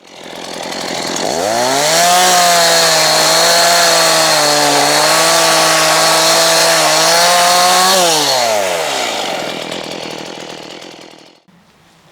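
Two-stroke chainsaw revved up from low speed to full throttle, held high for about six seconds with slight dips in pitch, then released, its engine note falling away and fading.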